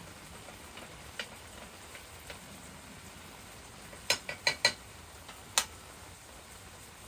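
A faint steady hiss with scattered light ticks, then a quick run of four sharp clicks or clinks about four seconds in and a single one about a second later.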